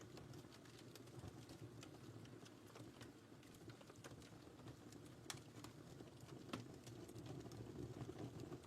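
Wood fire crackling in a fireplace, faint: a steady low rumble of flames with frequent small irregular snaps and two sharper pops a little past the middle.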